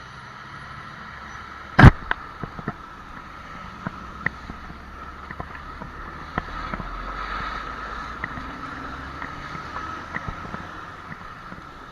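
A single loud sharp knock about two seconds in, followed by scattered lighter clicks and taps over a steady hum.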